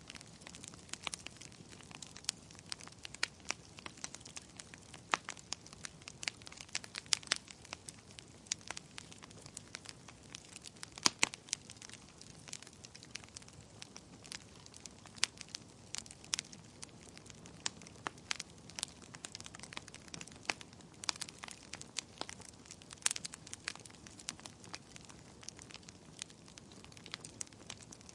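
Wood fire burning with steady, irregular crackling and sharp pops over a low hiss.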